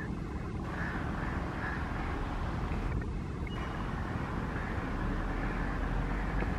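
Steady low rumble of an approaching electric-hauled passenger train, mixed with wind noise on the microphone.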